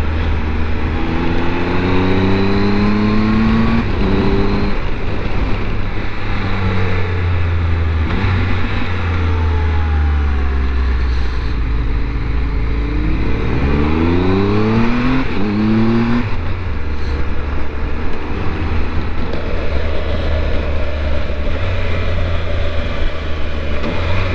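Triumph Tiger 1200's three-cylinder engine under way, pulling up in pitch several times as it accelerates through the gears, over a steady rush of wind noise.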